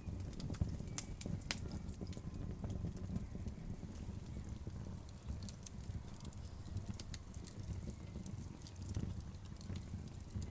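Burning logs crackling: a steady low rumble of the fire with scattered sharp pops and snaps, one louder pop about a second and a half in.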